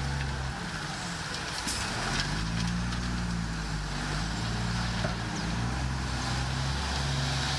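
Heavy diesel engine of earthmoving machinery running under load, its pitch dipping and rising a few times as the throttle changes.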